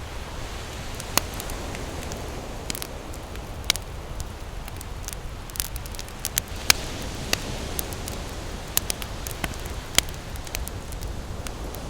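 Wood campfire crackling, with irregular sharp pops over a steady low wash of ocean surf.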